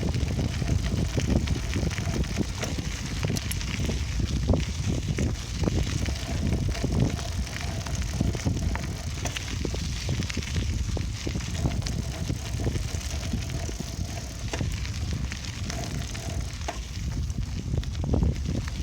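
Bicycle ride heard from an on-board camera: wind buffeting the microphone over the rumble of the tyres, with steady crackling from the road surface.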